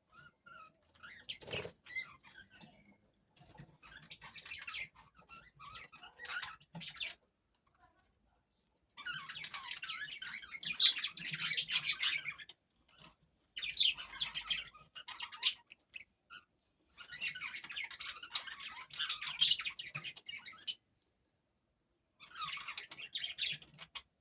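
Lovebirds chattering and squabbling in harsh, high bursts of a few seconds each, with short pauses between: males fighting over a female. It starts faint and scattered and grows louder after about nine seconds.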